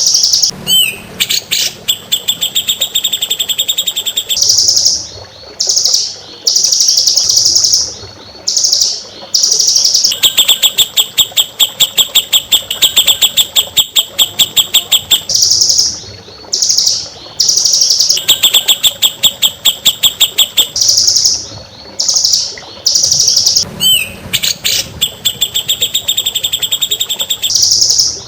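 Recorded songbird song used as a training track for cage birds. Short, high phrases alternate with long, rapid trills of evenly repeated notes, and the same phrases come round again and again.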